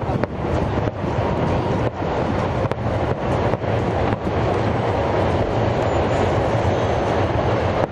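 Aerial fireworks shells bursting in quick succession: repeated sharp bangs over a continuous low rumble of booms.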